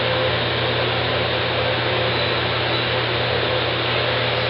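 Steady hiss with a low hum and a faint steady tone, unchanging throughout: background noise with no distinct event.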